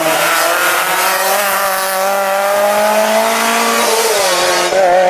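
Rally car engine pulling hard on a stage, its note climbing steadily, then dipping briefly about four seconds in before picking up again.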